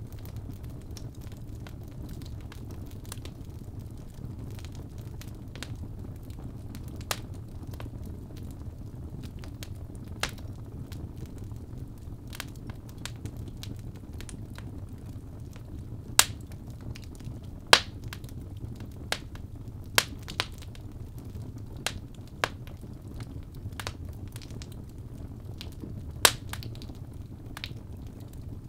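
Birch logs burning in a fireplace: a steady low rumble of flames with scattered crackles and sharp pops, several loud pops in the second half.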